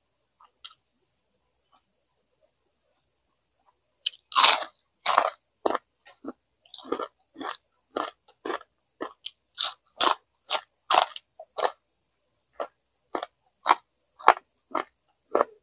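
Close-miked chewing of crunchy food: sharp mouth crunches about twice a second, starting about four seconds in.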